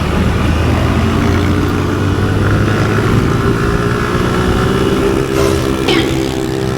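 Motorcycle engine running under way, its pitch slowly rising as it speeds up, over steady road noise.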